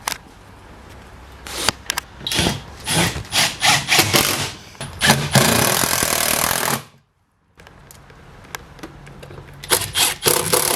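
Sharp clicks and knocks of a plastic door trim being pushed and clipped onto a car door. About five seconds in, a power tool runs for a second or so, then the sound cuts off abruptly. More clicks follow near the end.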